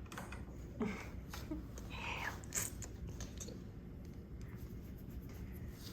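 Faint scattered clicks and rustles of handling, with a brief higher-pitched sound about two seconds in.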